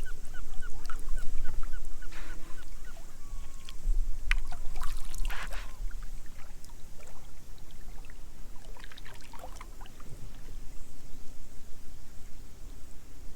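Water splashing and sloshing around a kayak over a steady low rumble, with a few louder splashes partway through. Near the start a bird gives a quick run of about eight short, rising calls.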